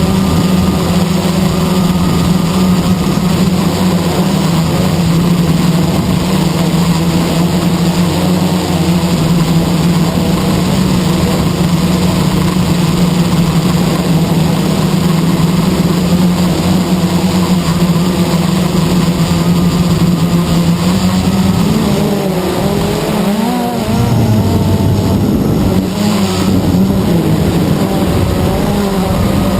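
Blade 350 QX quadcopter's electric motors and propellers buzzing steadily in flight. About two-thirds of the way through, the pitch wavers up and down for a few seconds as the throttle changes, then steadies.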